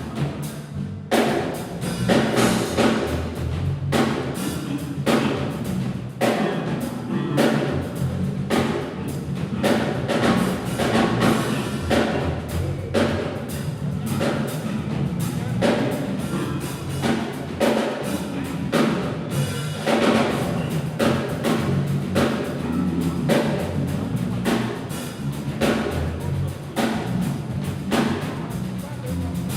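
Drum kit played non-stop in a fast solo, with densely packed strikes and no break.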